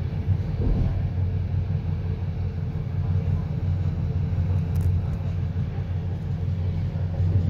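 Electric passenger train running along the track, heard from the front of the train: a steady low rumble of wheels on rails.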